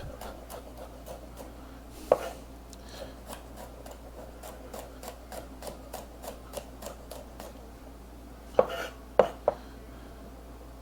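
Kitchen knife slicing garlic cloves on a cutting board: a steady run of light taps, about three a second, with a louder knock about two seconds in and two more near the end.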